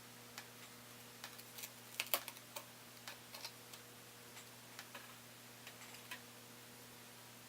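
Irregular light clicks and taps of small hand tools and tiny parts against a MacBook Pro's internals as it is taken apart, with a cluster of sharper clicks about two seconds in. A faint steady hum runs underneath.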